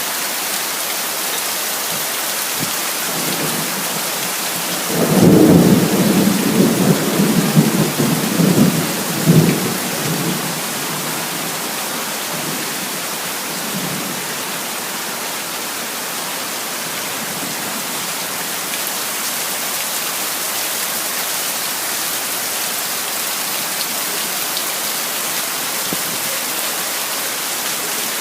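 Heavy rain falling steadily, with a roll of thunder starting about five seconds in and rumbling unevenly for about five seconds before fading back into the rain.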